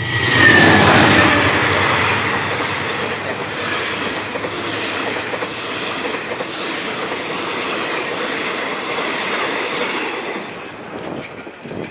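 Diesel-hauled passenger train passing close by at speed: the locomotive is loudest about half a second in, with a brief falling tone, then the coaches run by with a steady rumble and clatter of wheels on rail. The sound eases off near the end as the last coach passes.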